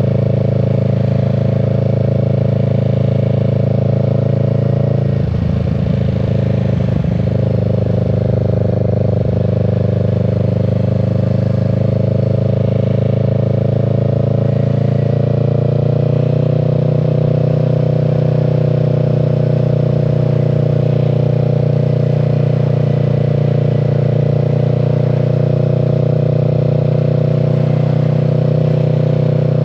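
Kawasaki Z650's parallel-twin engine running steadily while riding, heard from the rider's seat. There is a short unsteady patch about five seconds in, and the engine note rises a little at about sixteen seconds and holds there.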